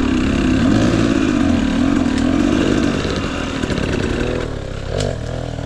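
Husqvarna TE250i two-stroke dirt bike engine running under load, its pitch wavering with the throttle. It eases off and drops about three seconds in, and a sharp click comes about five seconds in.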